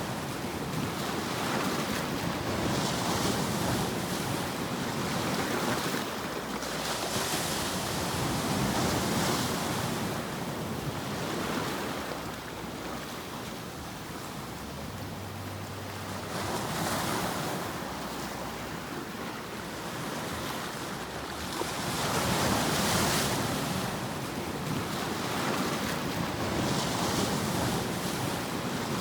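Continuous rushing white noise for sleep, swelling and ebbing every few seconds like surf washing on a shore.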